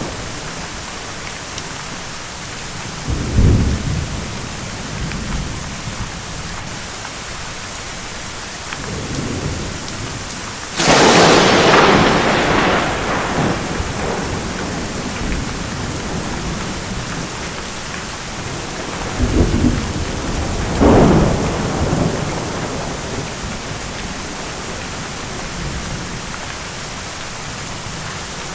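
Steady heavy rain with thunder several times over it. The loudest is a sharp close crack about eleven seconds in that rumbles away over a few seconds, with lower rumbles shortly after the start and two more around twenty seconds in.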